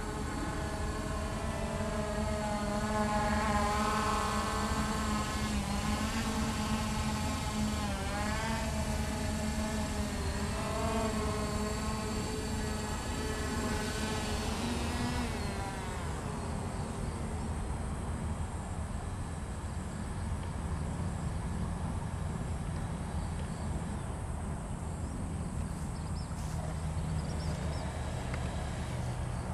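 Hubsan H501S quadcopter's brushless motors and propellers whining in flight, the pitch wavering up and down as the motor speeds change. About halfway through, the whine winds down and stops, leaving only steady outdoor background noise.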